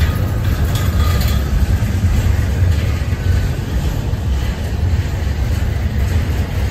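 Steady low rumble of a double-stack intermodal freight train rolling past, its container-laden well cars running over the rails.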